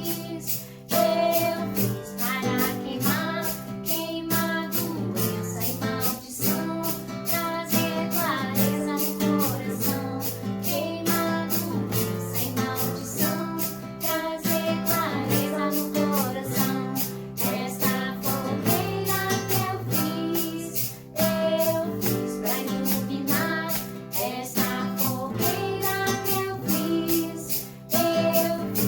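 A sung Portuguese-language hymn over steadily strummed acoustic guitar.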